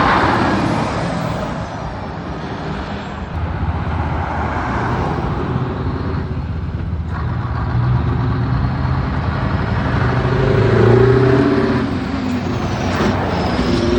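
Heavy trucks driving past one after another with their diesel engines running. One goes by right at the start, and another engine builds up to its loudest about eleven seconds in.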